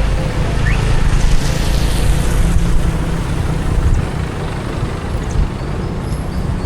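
Steady road and traffic noise from a car driving through city streets: a low rumble under an even hiss, easing slightly about halfway through.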